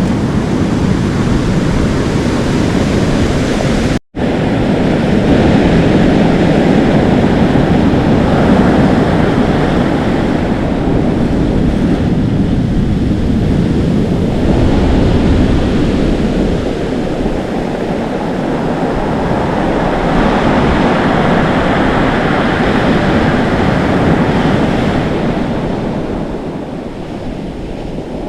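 Atlantic Ocean waves breaking and foaming, a continuous rush of surf that swells and eases several times as waves come in, with wind blowing. A split-second dropout to silence about four seconds in.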